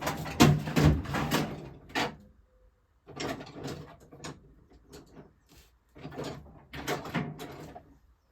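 Small metal hand tools, grips and a screwdriver, clicking and scraping against a hedge trimmer's plastic fuel tank in three short bursts of fiddly handling, as the old fuel hose is worked loose.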